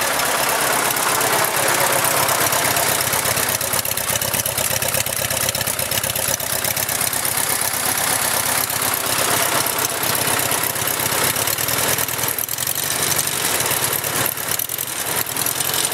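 Farmall Cub's four-cylinder flathead engine idling steadily just after a cold start with no choke.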